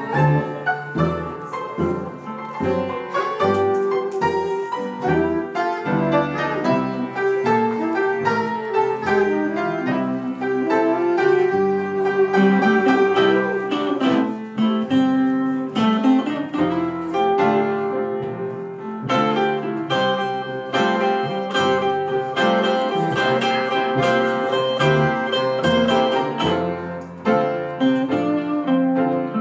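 Live blues band playing an instrumental passage, with guitar to the fore over a steady pulse of bass notes and no singing.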